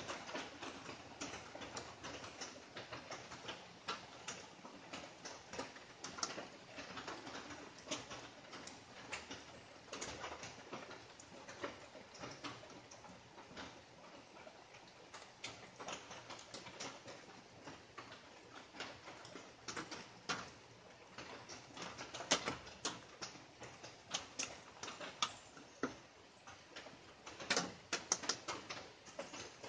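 Light rain pattering: irregular drops tapping on leaves and surfaces, some sharper and louder than others, with a cluster of louder drops near the end.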